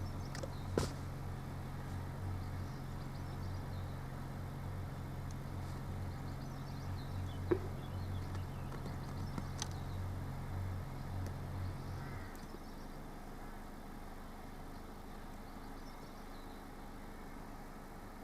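Car engine idling, a steady low hum that cuts off about twelve seconds in, with a couple of light clicks.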